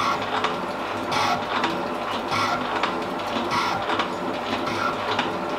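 Elliott metal shaping machine cutting an internal keyway in a gear blank. The ram strokes back and forth, with a scraping cut about once every 1.2 s and lighter clicks in between, as the cut is fed down towards full depth.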